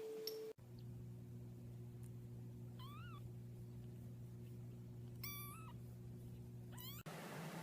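A cat meowing three times, short high calls that rise and fall, over a steady low hum.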